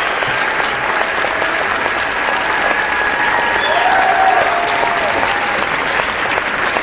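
A large crowd applauding, steady continuous clapping with faint voices calling out within it.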